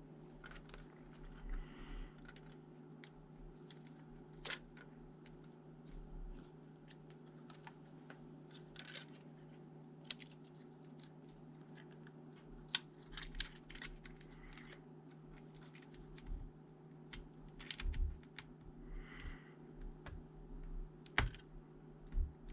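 Typing on a computer keyboard: scattered key clicks, some in quick runs, over a steady low hum.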